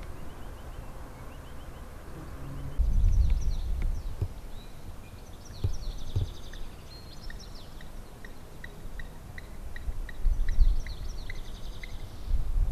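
Small birds singing, with high trills and a run of short chirps repeated a few times a second. Low rumbling bursts, loudest about three seconds in and again near the end, sound like wind on the microphone.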